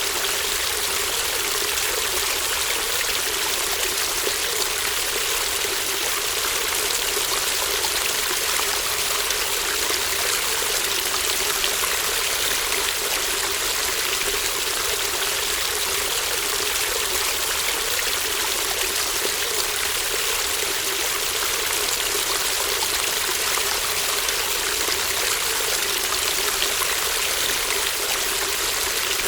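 Small stream babbling steadily: a continuous, even rush and trickle of flowing water.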